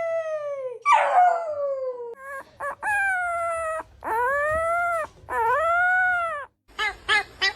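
A canine howling: about five long drawn-out howls, some falling in pitch and some rising then falling, then a quick run of short yips near the end.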